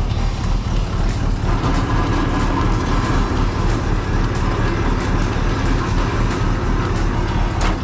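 Heavy diesel engine running steadily with an even low throb. A faint steady whine joins about one and a half seconds in.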